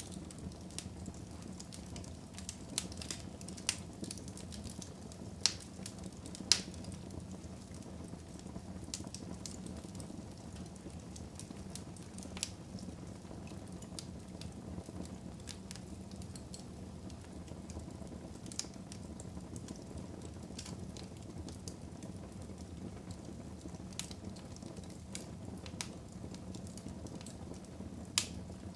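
Wood fire burning in a fireplace: a low steady rumble of flames with scattered sharp crackles and pops from the burning logs, a few of them much louder.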